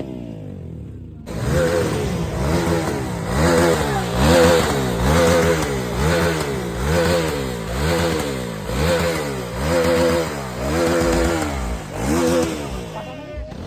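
Motorcycle engine revved again and again, the throttle blipped about once a second a dozen or so times, each rev rising and falling in pitch.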